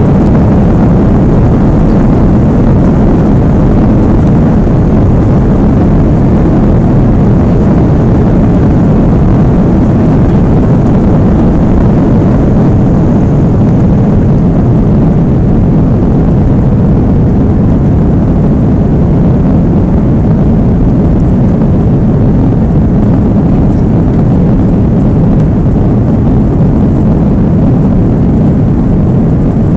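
Steady, loud jet engine and airflow noise heard inside the cabin of an Airbus A330 airliner during takeoff. It holds an even level and pitch throughout.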